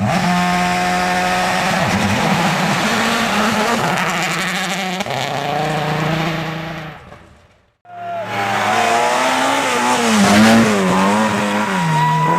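Racing car engine running at high revs, its pitch holding and then wavering. The sound fades out about seven seconds in, and after a short gap another racing engine comes in with its revs rising and falling.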